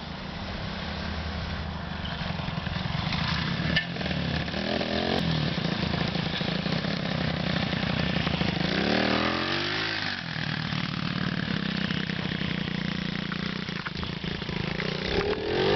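Small pit bike engine running with a steady note, revved up twice, about four seconds in and again about nine seconds in, each time rising in pitch and falling back; it starts revving again near the end.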